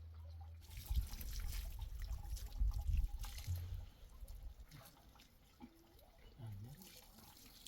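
Liquid splashing and trickling for about three seconds from just under a second in, then fading to faint drips and rustles.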